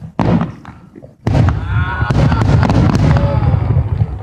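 Fireworks exploding: one sharp bang just after the start, then from a little over a second in a dense run of crackling bangs lasting nearly three seconds.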